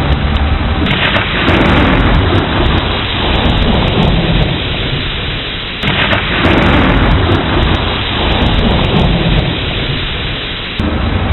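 Steady heavy rain with two rolls of thunder, one starting about a second in and another about six seconds in, each beginning suddenly and rumbling away over a few seconds.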